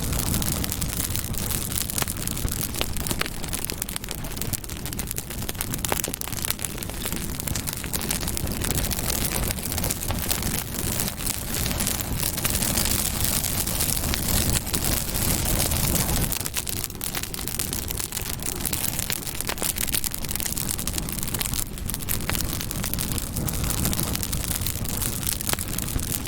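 Campfire burning: wood crackling with many small sharp snaps over a steady low rush of flame.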